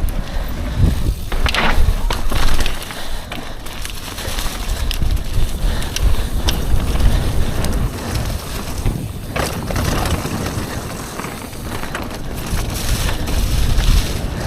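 Wheels rolling at speed over a rough surface, a steady uneven rumble with scattered clicks and rattles, and wind buffeting the microphone.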